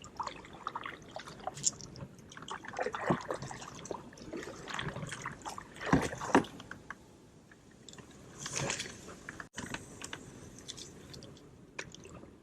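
Creek water sloshing and splashing in irregular strokes as someone moves through it, with a few louder splashes among softer rustles.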